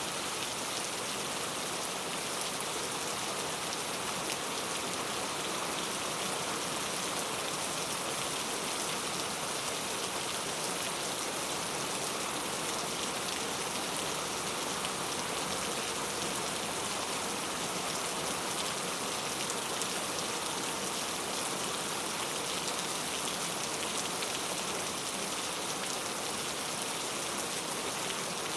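Heavy rain falling steadily, a dense unbroken patter of drops hitting hard surfaces.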